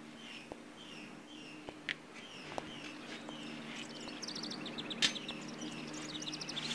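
Small birds chirping: a short downward chirp repeated about twice a second, joined about four seconds in by a faster, higher trill. A few light clicks stand out, the sharpest about five seconds in, over a faint steady low hum.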